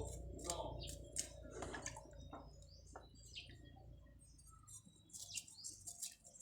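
Birds chirping in short, high calls, over a low hum that fades out about two-thirds of the way in.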